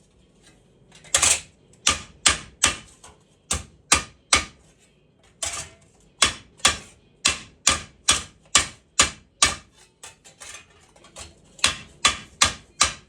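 Hammer blows on a thick steel plate: some two dozen sharp metallic strikes, about two or three a second, with a short pause near the start and a few lighter taps just past the middle.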